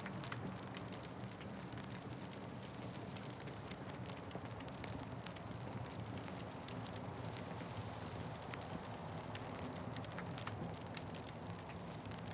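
Wood fire crackling, with frequent small irregular pops and snaps over a steady low rush.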